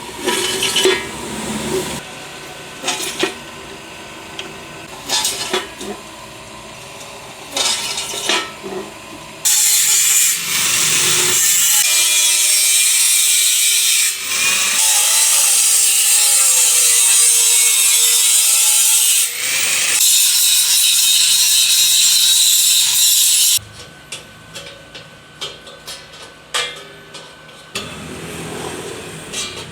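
Tools and metal parts being handled with clicks and knocks. About nine seconds in, a power tool starts and runs for about fourteen seconds with a loud hiss, its pitch wavering as it works, then stops suddenly. Handling clicks follow.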